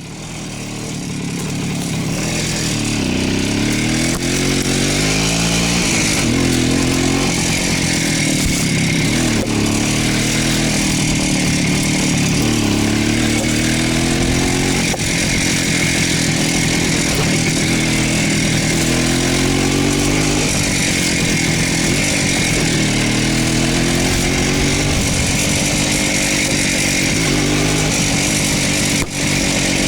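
Voskhod motorcycle's two-stroke single-cylinder engine running under way, its pitch rising and falling again and again as it revs up and eases off.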